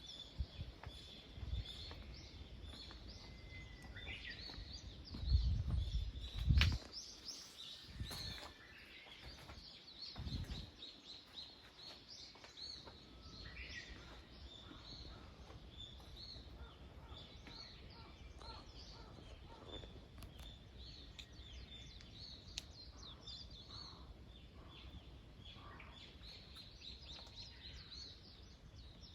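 Small birds chirping and singing in a morning chorus, many short calls overlapping throughout, over a faint steady outdoor background. A few low thuds stand out about five to seven seconds in.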